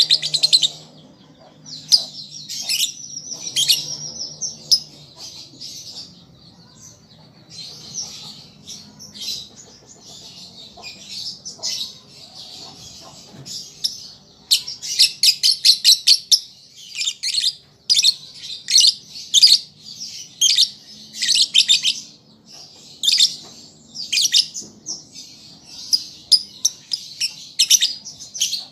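Young lovebird twittering in rapid high-pitched chirps, in bursts: softer and more scattered for the first half, then louder, tightly packed bursts for the rest.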